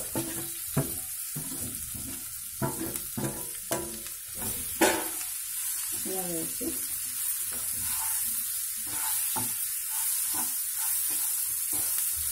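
Mashed boiled raw banana frying in hot oil with tempering spices: a steady sizzle as a spatula scrapes it off a steel plate into the pan and stirs it. Sharp knocks come in the first five seconds, the loudest about five seconds in.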